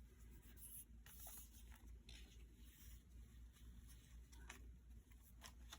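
Faint rustling of paper journal pages being handled, with a few light clicks, over a low room hum.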